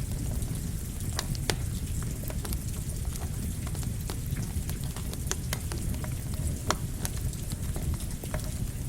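Campfire crackling, with irregular sharp pops every second or so over a steady rain-like hiss and low rumble.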